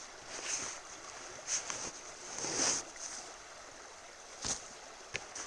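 Camping gear being handled: several short rustling swishes, the longest near the middle, then a sharp click and another near the end, over a steady faint hiss.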